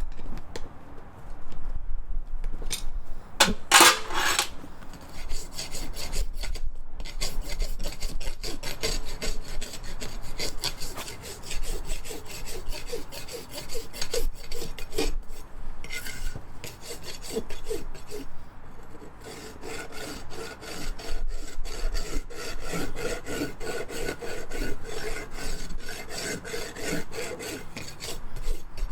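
Farrier's rasp filing a horse's hoof in quick repeated strokes, with one louder scrape about four seconds in.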